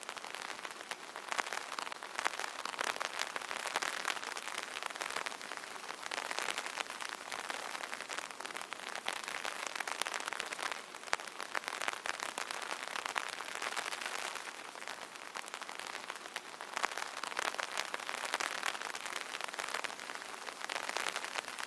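Light rain pattering on an umbrella canopy, a dense patter of drops that swells and eases every few seconds.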